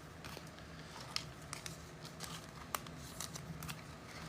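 Faint handling of trading cards and card packs: scattered small clicks and snaps, two of them louder at about one and three seconds in, over a faint steady low hum.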